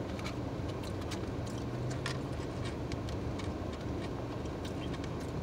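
Close-up mouth sounds of a person chewing food: irregular wet clicks and smacks several times a second. A steady low hum from the car runs underneath.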